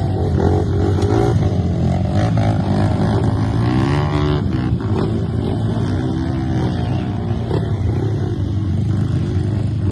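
Off-road motorcycle engine running under load, revving up and easing off with the pitch rising and falling, most clearly around the middle.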